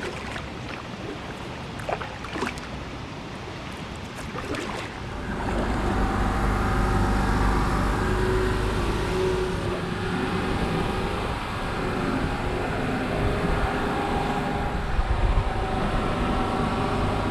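A boat engine running steadily, coming in louder about five seconds in, after a few light knocks.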